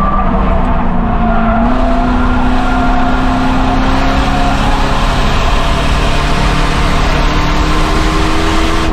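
Race car engine running hard at a sustained speed, a loud steady drone whose pitch steps up slightly a little under two seconds in.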